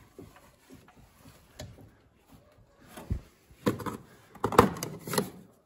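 Knocking from the right-side suspension of a Lada Vesta: a few faint clicks, then a run of sharp knocks from about three seconds in, loudest near the end. The owner traces the knock to a worn strut support bearing.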